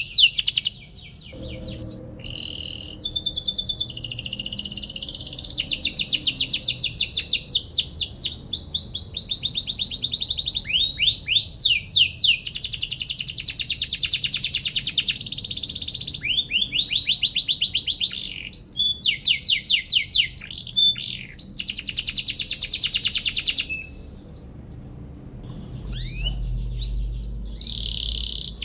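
Domestic canary singing a long song: fast trills of quick falling chirps, many a second, in phrases of a few seconds broken by short pauses, with one longer pause near the end.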